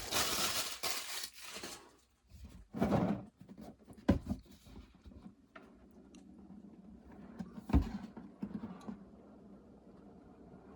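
Game-box packaging being handled: wrapping crinkles for the first couple of seconds, then come scattered knocks, scrapes and a thump of the cardboard box being opened.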